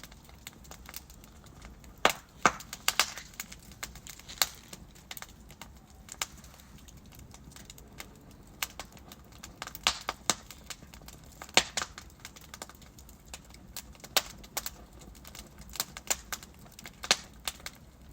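Wood fire crackling: burning logs give off irregular sharp pops and snaps, several to a second at times, over a low steady hiss.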